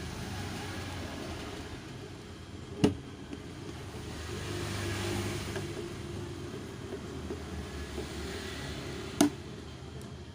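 Two sharp clicks about six seconds apart over a steady low rumble, as bolts are undone from a car headlamp housing with a hand tool.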